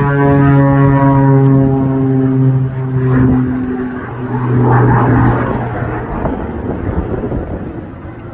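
Pitts S-2S aerobatic biplane's piston engine and propeller droning loudly in a pass, the pitch sliding slowly lower, dipping briefly about three and a half seconds in, then fading away after about six seconds.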